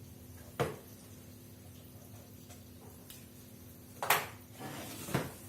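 Kitchen containers and dishes being handled: three short clunks, one about half a second in, the loudest about four seconds in and another just after five seconds, with a little rustling between the last two.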